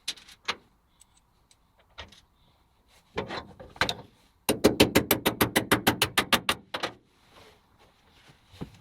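A few scattered knocks and clicks, then about halfway in a rapid, even run of sharp clicks, about eight a second for two seconds.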